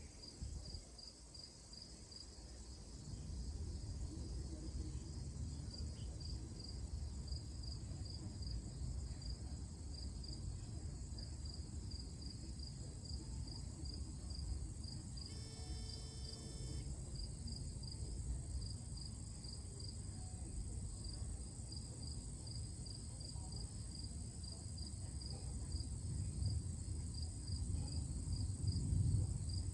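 Crickets chirping in a steady, evenly pulsing rhythm, with a steady high insect whine above them and a low rumble underneath. About halfway through, a brief tonal sound with several pitches lasts a second or two.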